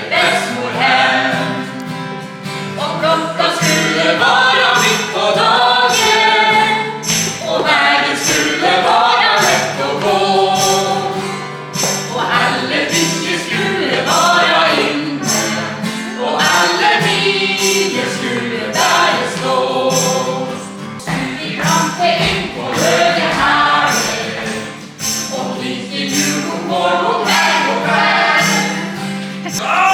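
Live choir singing, several voices together, over a steady jingling percussion beat.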